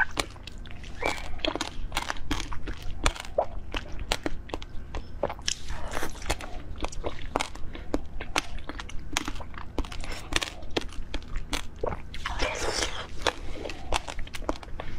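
Close-miked biting and chewing of orange jelly balls set with passion fruit seeds: a fast, irregular run of sharp crunchy clicks, with a longer noisy stretch about twelve seconds in.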